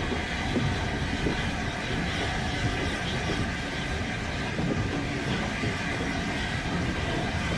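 Heritage train running slowly on the track, heard from aboard: a steady rumble of the carriage with faint clicking from the wheels on the rails.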